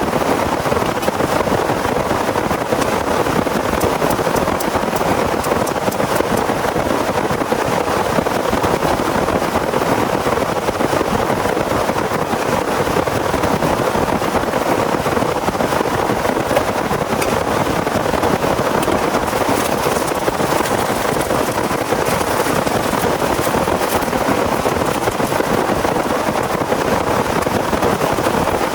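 Heavy rain falling steadily, a dense even hiss with fine ticks of individual drops.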